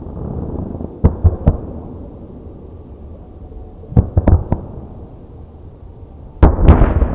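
Aerial firework shells bursting with sharp bangs: three quick bangs about a second in, three more around four seconds, then a louder, denser run of bangs near the end, over a low rumble of echoing explosions.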